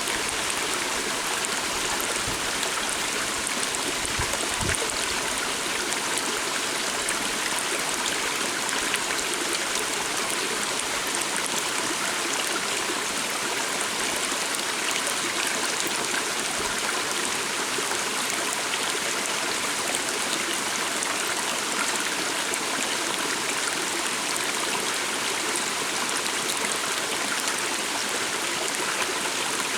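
Stream of water flowing steadily, a continuous rushing and trickling.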